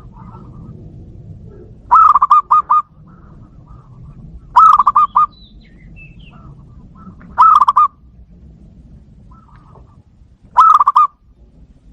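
Zebra dove (perkutut) cooing: four short phrases, each a quick rippling run of notes, about three seconds apart.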